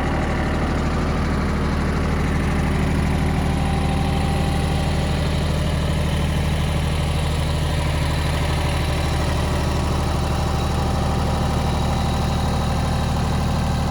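Yanmar YM1820D compact tractor's three-cylinder diesel engine running steadily at an even speed.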